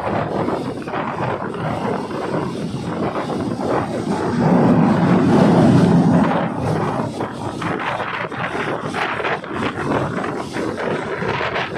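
A moving train's running noise, a steady rumble and rush that swells louder about four to six seconds in.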